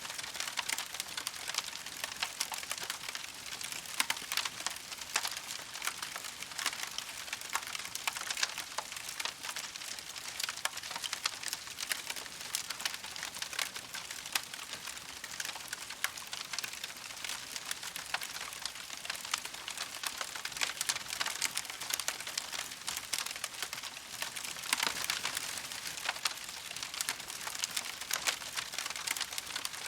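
Campfire crackling steadily: a dense run of small pops and snaps over a soft hiss.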